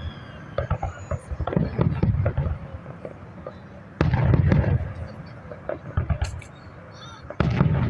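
Fireworks display: a dense crackling and popping from cascading 'waterfall' fireworks, with two loud booms of bursting shells, one about halfway through and one near the end.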